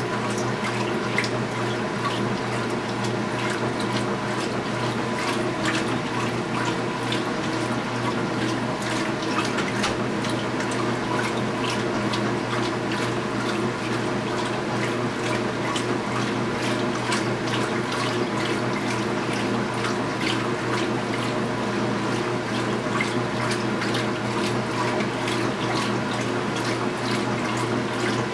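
2015 Speed Queen 8 Series top-load washing machine running mid-cycle: a steady motor or pump hum under continuous rushing, splashing water.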